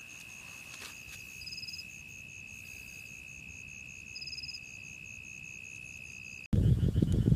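Forest insects calling: one holds a steady, high, unbroken whine while another chirps in a fast, even pulse above it, with two short trills about a second and a half and four seconds in. Near the end the sound cuts abruptly to a loud, low rumbling noise.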